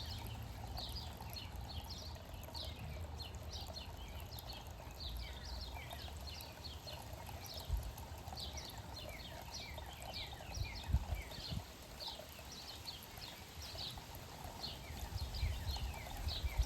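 Small birds chirping constantly, many short downward-sliding chirps overlapping, over a low steady rumble. A few dull thumps come about halfway through.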